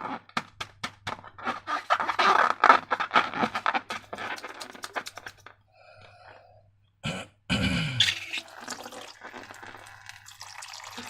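Slime being squished and handled, a dense run of sticky clicks and crackles that stops about five seconds in; after a short quiet gap, a sharp knock and more squelchy handling.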